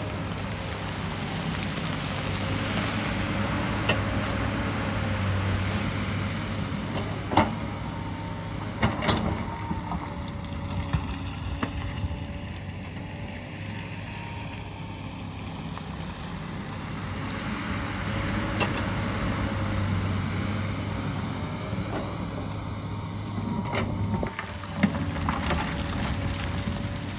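Hyundai excavator's diesel engine running steadily with a wavering whine, the sound swelling and easing as the machine works. Sharp knocks and clatters from the digging break in now and then, about half a dozen times.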